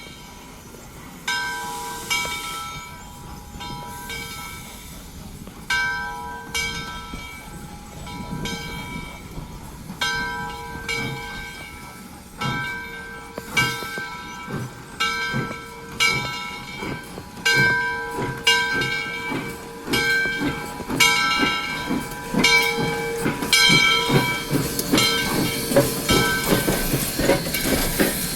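Locomotive bell clanging repeatedly, about once a second, over a steady hiss. A low rhythmic beat from the moving train speeds up and grows louder toward the end.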